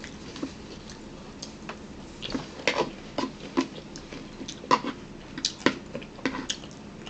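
Close-miked eating sounds: a run of irregular sharp clicks and smacks from chewing, with no words.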